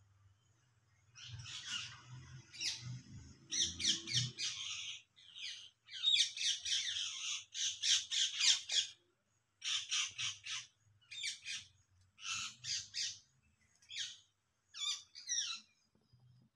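Birds calling in a rapid series of short, noisy bursts, grouped in clusters with brief pauses between them, starting about a second in.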